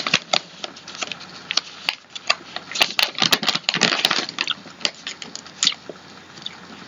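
A plastic snack bag of masa crisps crinkling as it is opened and handled, with the crisps crunching, making a busy run of sharp crackles that is thickest about three to four seconds in.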